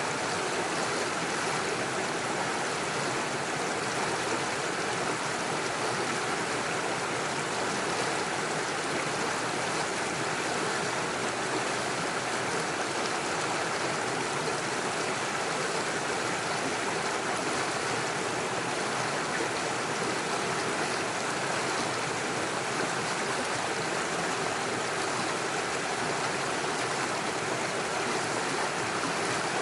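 Small rocky stream rushing steadily over stones and little waterfalls, an even unbroken water noise.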